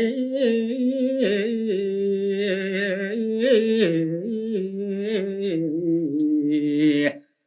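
Solo male voice singing a Balinese geguritan verse in the pupuh Sinom tembang, unaccompanied, with long held notes ornamented by wavering melismas. The voice breaks off about seven seconds in.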